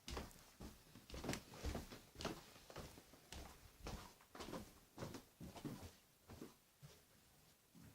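Faint, irregular light knocks, taps and rustles, several a second, as of someone moving about and handling objects in a small room.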